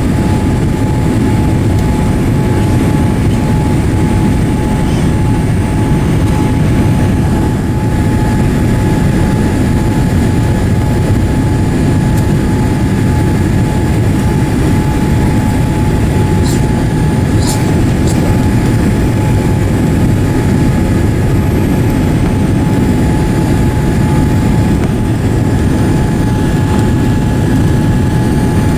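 Steady loud cabin noise inside a Boeing 787-8 in flight: a deep rush of airflow and engines with a constant mid-pitched hum running under it. Two brief faint clicks about two thirds of the way through.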